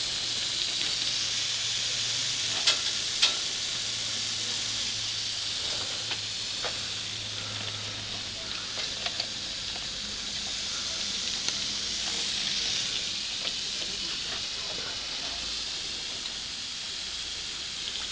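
Fine water mist hissing steadily from a hand-pumped pressure sprayer, with a couple of sharp ticks about three seconds in.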